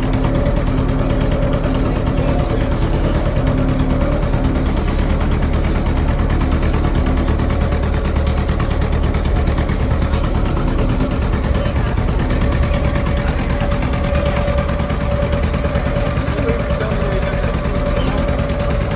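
Tractor engine running steadily at an even speed while pulling the trolley, with a constant engine hum.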